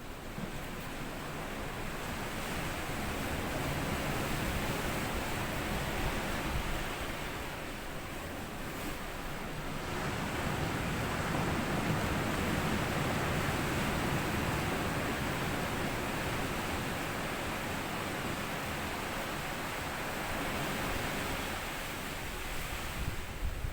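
Small sea waves washing up onto a sand beach and drawing back, a steady hiss that swells and ebbs every several seconds.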